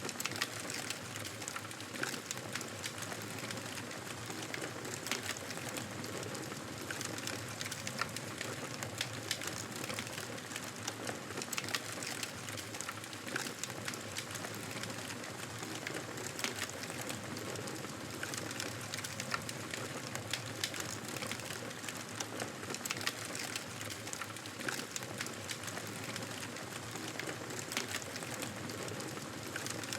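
Wood fire burning in a fireplace: a steady hiss of flames with frequent, irregular sharp crackles and pops.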